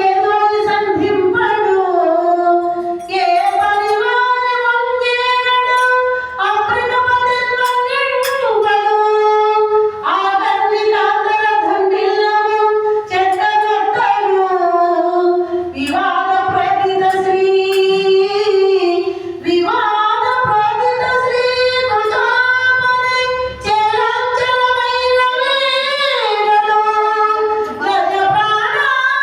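A woman's voice singing a slow Telugu devotional bhajan, holding long, gliding melodic notes.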